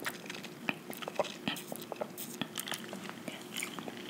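Close-miked mouth sounds of eating: chewing with wet smacks and many small, irregular clicks.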